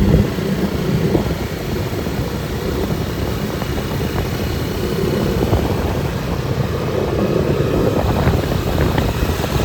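A small engine running steadily under a loud, rough low rumble, as heard while riding in a motor vehicle.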